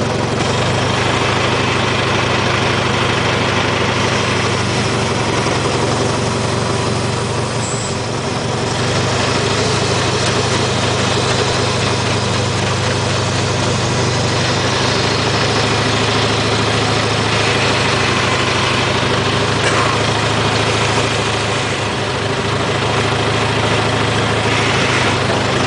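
IHC tractor engine running steadily at an even low speed, with a slight dip in loudness twice.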